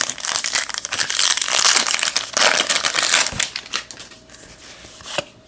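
Trading-card pack wrapper crinkling and crumpling in the hands for about three seconds, then quieter handling with a few light clicks.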